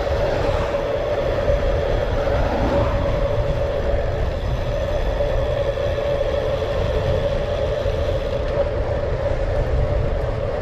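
Wind buffeting the microphone of a moving bicycle rider, a steady low rumble, with a steady mid-pitched hum over it.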